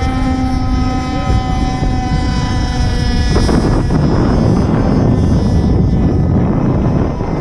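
Stock 26cc Zenoah two-stroke gas engine of an RC race boat running flat out with a steady high note. From about three seconds in, the note is buried under a louder, rougher rush.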